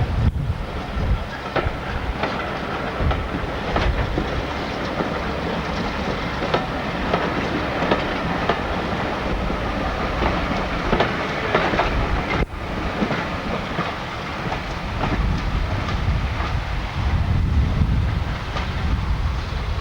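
Train running along the line, its wheels clattering irregularly over the rail joints.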